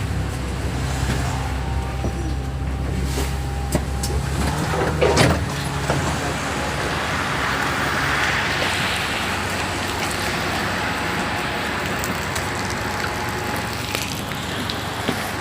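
The diesel engine of a double-decker bus runs low and steady for about five seconds and stops with a sharp knock. Then wet-road traffic noise swells and fades about eight seconds in as a vehicle passes.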